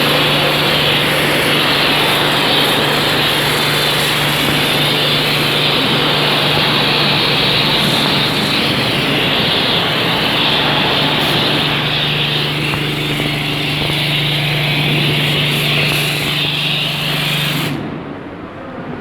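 High-pressure washer jet spraying water over a Hyundai Solaris engine bay: a loud, steady hiss over the pump's steady hum, which cuts off suddenly about a second before the end.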